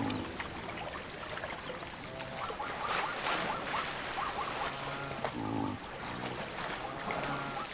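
Herd animals calling in short, pitch-bending calls over rushing water, with a low sustained tone underneath.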